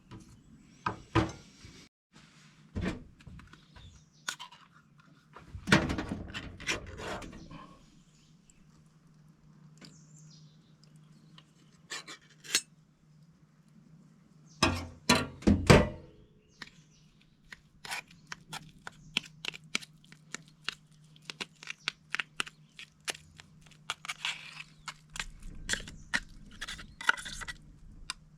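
A series of knocks and thunks from objects being handled and set down, then a quick run of light clicks and taps, over a faint steady low hum.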